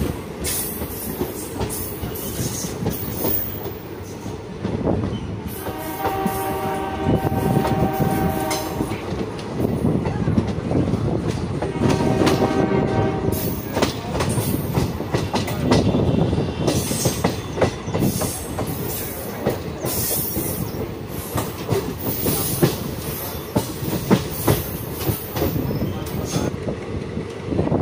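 Indian Railways passenger train running at speed, heard from on board: wheels rattling and clicking over the rail joints. A train horn sounds twice, a long blast about six seconds in and a shorter one about twelve seconds in.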